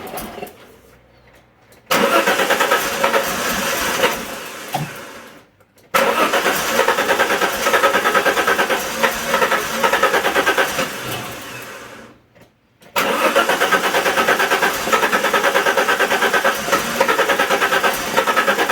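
Alfa Romeo 164's 2.0 V6 turbo Busso engine turned over on the starter in three separate attempts. Each starts abruptly with a regular pulsing beat and then dies away over a second or two.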